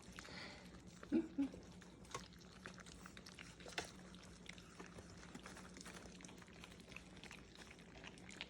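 Four-week-old English retriever puppies eating soft food from a tray: faint wet lapping and smacking clicks throughout, with two short puppy whimpers about a second in.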